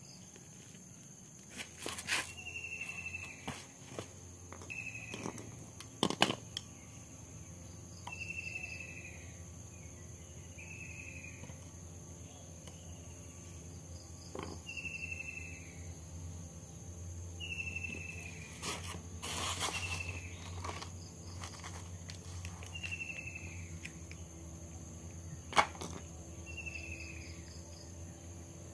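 Outdoor ambience: a bird repeats a short, falling whistled note every second or two over a steady high insect drone. A few sharp clicks and knocks come from tyre-repair tools being handled, the loudest about 25 seconds in.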